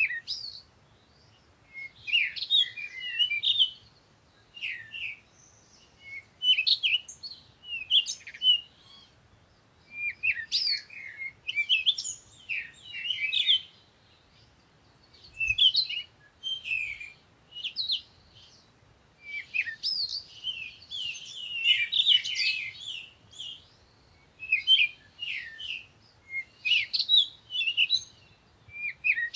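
Small songbirds chirping and singing: phrases of quick, high, warbling notes, one to two seconds long, with short pauses between them.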